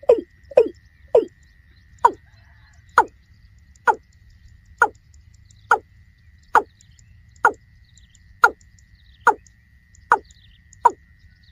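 Watercock (kora) calling: a long series of short notes, each falling in pitch, coming about twice a second at first and slowing to about one a second.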